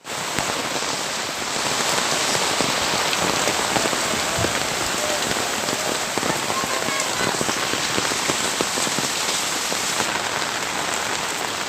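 Monsoon rain falling steadily, with many individual drops striking throughout.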